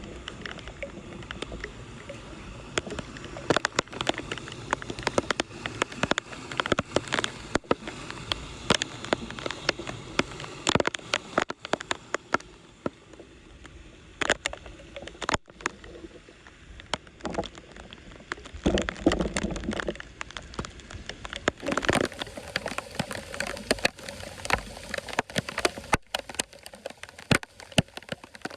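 Floodwater running and gurgling, with frequent sharp clicks and knocks throughout and a brief heavier slosh about two-thirds of the way through.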